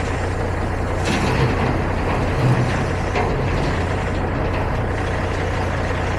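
Semi-truck diesel engine running, a steady low drone with road and mechanical noise over it.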